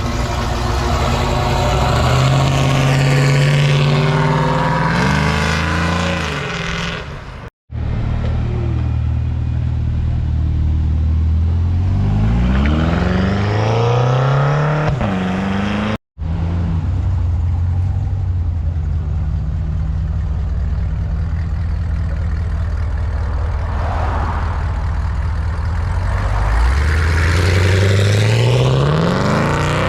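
Car engines accelerating hard one after another, each exhaust note climbing in pitch as it revs up, with a couple of drops and climbs that sound like gear changes. The sound cuts off abruptly twice, about a quarter and about halfway through, before the next car is heard.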